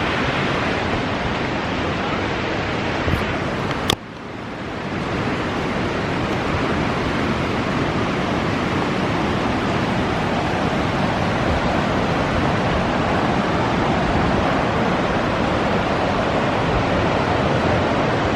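Steady rush of the Niagara River's white-water rapids. A sharp click and a short dip in level come about four seconds in.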